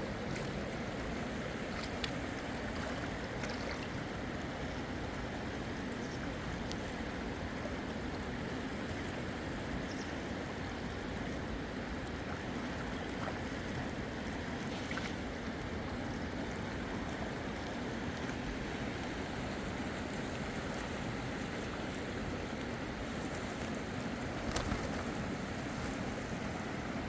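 Steady rushing of fast river water, with a few faint clicks near the end.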